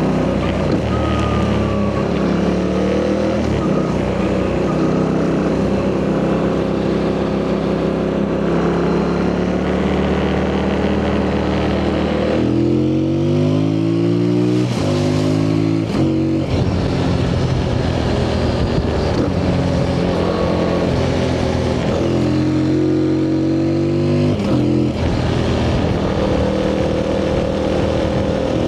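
2025 Yamaha MT-07's 689 cc CP2 parallel-twin engine through its stock exhaust, heard from the rider's seat. It runs at a steady pitch at first, then about halfway it revs up hard in quick rising steps, with short breaks between them like upshifts, and it pulls up again near the end.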